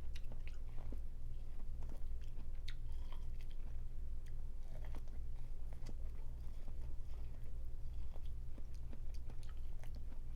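Close-miked chewing and biting of food, with many small scattered clicks and crunches over a steady low hum.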